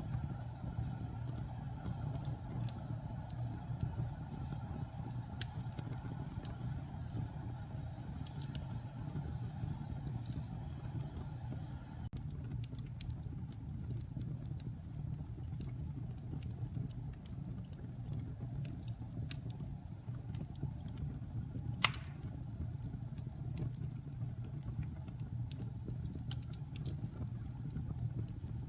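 Wood fire in a fireplace burning with a steady low rumble and scattered small crackles, with one sharp, loud pop about two-thirds of the way through.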